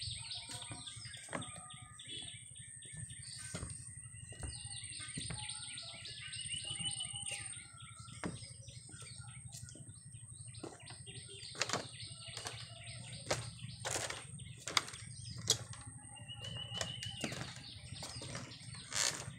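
Birds chirping and trilling, short calls repeated again and again, over a thin, steady, high-pitched whine. Scattered sharp clicks and knocks come through, the loudest in the second half, over a low steady rumble.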